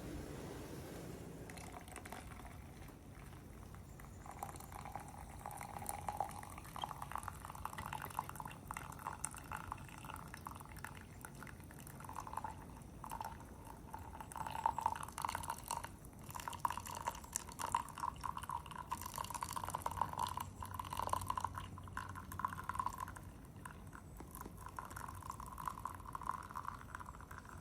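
Hot water being poured through a pour-over drip coffee filter, a steady trickle with dripping whose pitch rises slightly as the vessel fills.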